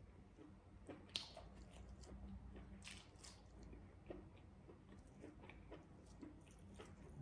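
Faint chewing and wet mouth sounds of a person eating, with scattered soft clicks and crackles as fingers tear pieces of deep-fried pork sausage; the sharpest clicks come about a second in and again about three seconds in.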